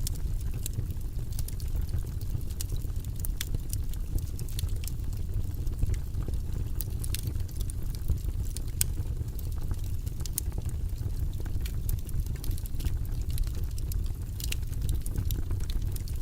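Wood fire burning in a fireplace: a steady low rumble of the flames with many small, irregular crackles and pops from the burning logs.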